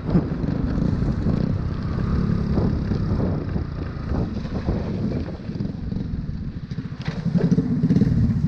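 Motorbike engine running while riding, its exhaust pulsing steadily, picking up and getting louder about seven seconds in.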